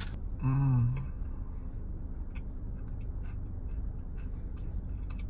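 Faint, scattered crunching clicks of someone chewing a crispy fried chicken sandwich, over a low steady hum. A short hummed "mm" from a voice comes about half a second in.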